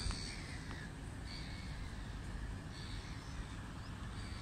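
Birds calling, short high calls repeating every second or two over a steady low rumble.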